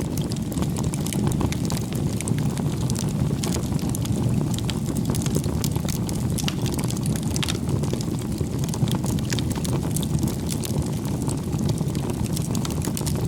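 Wood fire burning: a steady low rumble of flames with irregular small crackles and pops scattered throughout.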